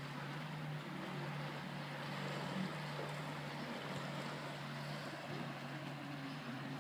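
Steady wash of waves and wind at the water's edge, with a low steady hum underneath.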